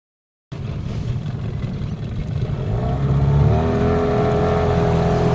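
Hangkai 18 HP two-stroke outboard motor running under way; about two and a half seconds in the throttle opens, its pitch rises and it gets louder, then it holds steady at high revs.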